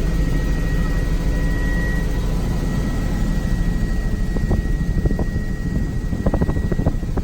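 Helicopter in flight, heard from inside the cabin: a steady, dense rush of engine and rotor noise with a thin, steady high whine above it.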